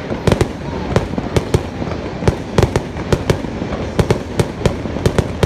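Fireworks going off: a rapid, irregular string of sharp bangs and pops, about three or four a second, over a steady rumble.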